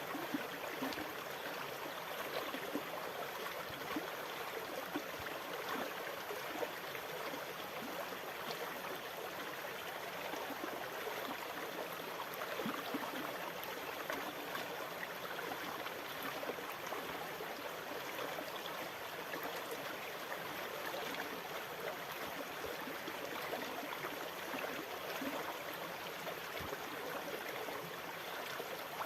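Steady flowing water, trickling and gurgling with small splashy crackles, at an even level with no swell of breaking waves.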